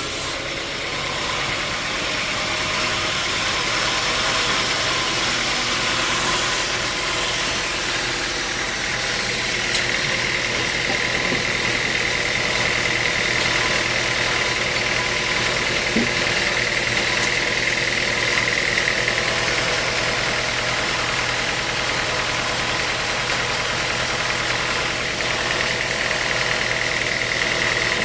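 Sawmill machinery running steadily, with a high whine coming in about ten seconds in, dropping away around nineteen seconds and returning near the end.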